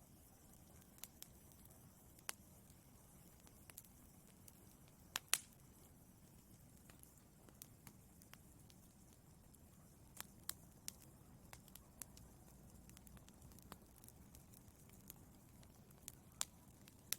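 Wood fire in a fireplace crackling: scattered sharp pops and snaps over a faint low rumble of burning. The loudest pop comes about five seconds in.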